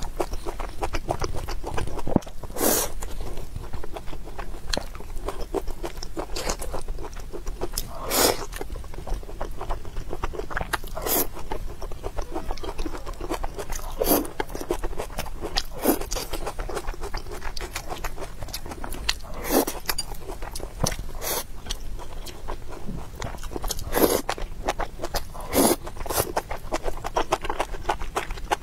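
Close-miked chewing of rice and soft, saucy food: a steady run of small wet mouth clicks, with a louder bite or smack every couple of seconds.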